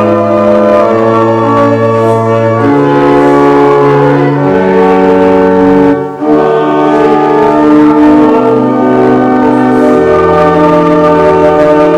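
Church organ playing a hymn: sustained chords that change every second or two, with a brief break between phrases about six seconds in.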